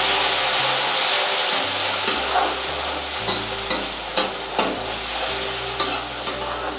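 Chopped tomatoes sizzling as they fry in hot mustard oil with browned onions in a kadhai. A metal spatula scrapes and clicks against the pan as they are stirred, the clicks coming two or three a second after the first couple of seconds.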